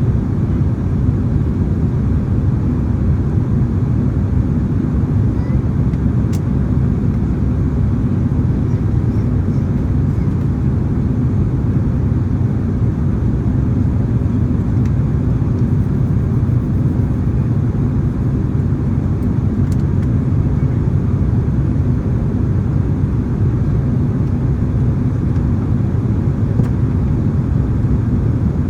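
Boeing 767-300ER cabin noise in flight: a steady low rumble of the engines and airflow heard from a window seat behind the wing, with a couple of faint clicks.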